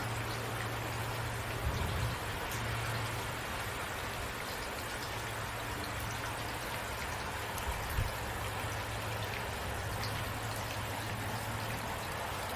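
Steady rain with scattered individual drops ticking, over a constant low hum. Two brief low thumps come through, one about two seconds in and one past the middle.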